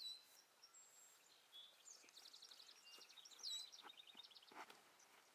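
Faint songbird calls: a short whistle that drops in pitch, a rapid high trill about two seconds in, then another falling whistle.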